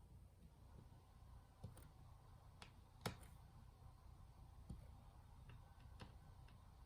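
Near silence with scattered faint clicks and light taps, one sharper click about three seconds in.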